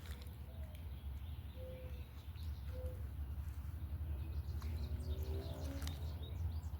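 Soft, short animal calls: a few brief pitched notes, then a longer call with several tones about five seconds in. Faint scattered clicks sit over a steady low rumble.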